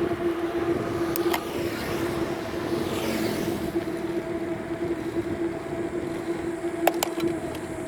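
Steady road and traffic noise heard on the move during a bike ride, with a constant hum, a passing swell about three seconds in, and a few sharp clicks about a second in and near the end.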